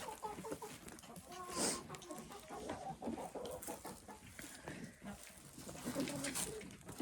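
Laying hens clucking softly in short calls, with a louder call about one and a half seconds in.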